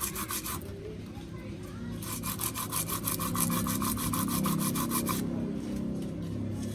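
Sandpaper rubbed quickly back and forth on a lightly worn metal part of a Toyota van's starter, cleaning it to cure a click-no-start fault: a short run of scraping strokes at the start, then a longer run of about eight or nine strokes a second from about two seconds in to just past five seconds.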